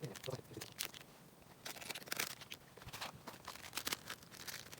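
Rustling and crinkling of things being handled, an irregular run of short scrapes and clicks.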